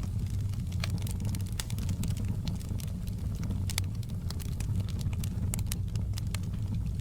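Burning logs in a fireplace crackling, with frequent irregular sharp pops over a steady low rumble of the fire.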